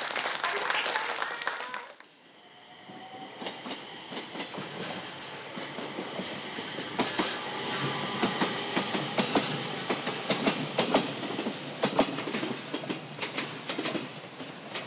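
Train running on the rails, its wheels clicking irregularly over rail joints over a faint steady whine; the clicking grows busier about seven seconds in. The first two seconds hold the tail of applause, which cuts off sharply.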